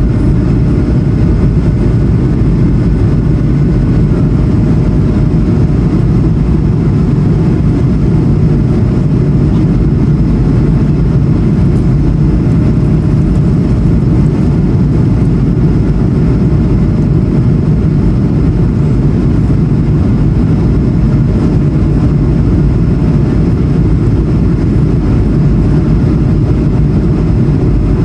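Steady roar of an Airbus A220-100's Pratt & Whitney PW1500G geared turbofan engines and airflow heard inside the passenger cabin, deep and even, with faint steady whine tones above it.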